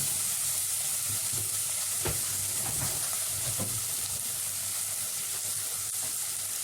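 Grated carrot, bell pepper and peas sizzling steadily in ghee in a pot as they are stirred, with a few light knocks of the spoon against the pot.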